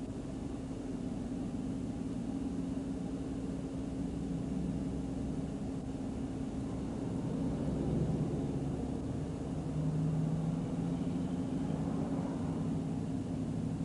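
Patrol car driving, heard from inside the cabin: a steady drone of engine and road noise, with the engine note shifting a little now and then.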